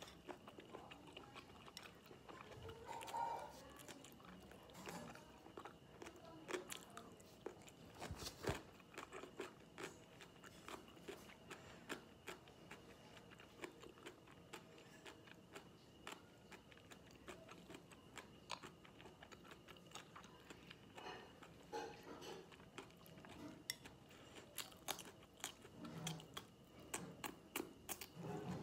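A person chewing braised pig colon, with many small mouth clicks and smacks throughout. There is one sharper knock about eight seconds in.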